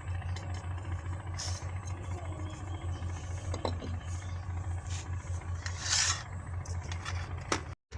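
Spoon scraping and tapping against a mixing bowl as ground spices are added to minced chicken, with a louder scrape about six seconds in, over a steady low hum. The sound drops out briefly just before the end.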